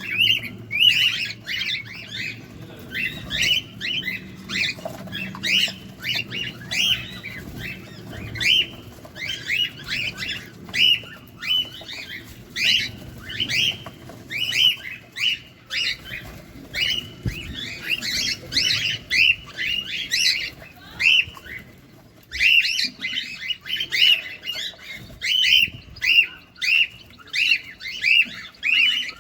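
Cockatiels calling in short, raspy chirps repeated two to three times a second, with a brief pause about three quarters of the way through.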